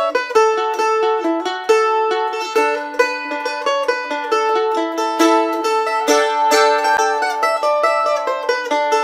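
Mandolin picking an instrumental melody, note after note with some two-note chords; the picking grows busier and brighter about six seconds in.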